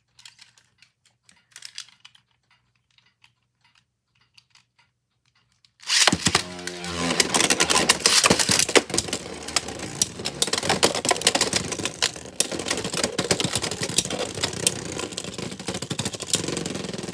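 Faint clicks of handling, then two Beyblade X spinning tops launched about six seconds in, spinning and clashing in a plastic stadium: a steady grinding whir full of rapid, sharp plastic-on-plastic hits that carries on to the end.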